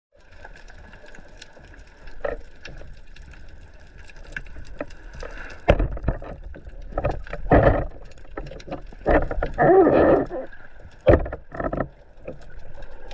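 Water sounds from a shallow dive: a steady faint crackle of small clicks, broken in the second half by several louder rough splashing or bubbling bursts.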